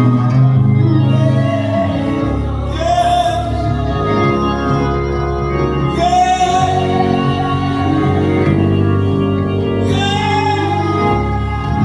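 Gospel music: a singing voice with organ accompaniment, with long held notes starting about 3, 6 and 10 seconds in over steady organ chords.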